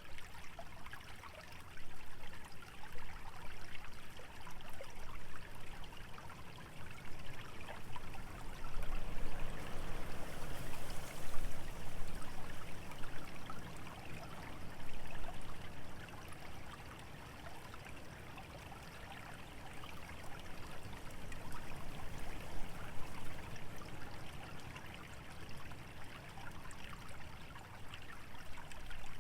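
A small stream trickling through a wetland, with wind rustling dry, dormant vegetation. The sound is steady and swells louder for a few seconds partway through.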